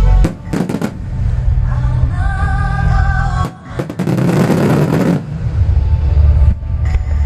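Music with singing played over loudspeakers, broken by fireworks: a quick run of sharp bangs just after the start, then about a second of dense crackling some four seconds in.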